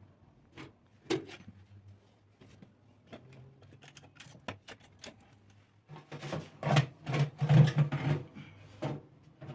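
Scattered knocks and clicks of objects being handled, growing into a quick run of knocking and rubbing about six seconds in.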